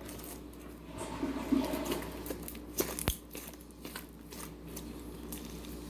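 Homemade clear glue slime being squeezed and stretched by hand, giving off scattered small pops and crackles, with one sharper click about three seconds in.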